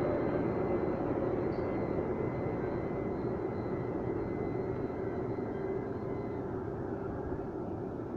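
Automatic car wash machinery running, heard from inside the car: a steady rushing noise with a faint high whine that stops about six seconds in, the whole sound slowly fading.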